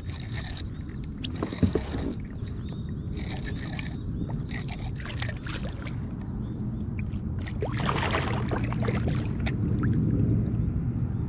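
Water sloshing and splashing at a kayak while a hooked bass is fought, with scattered clicks and knocks and one sharp knock about a second and a half in. The splashing and clicking grow busier about eight seconds in, over a faint steady high tone.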